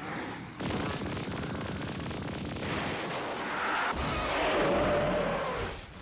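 Explosion sound effects in an animated battle: a dense crackling rumble that swells louder and deeper about four seconds in.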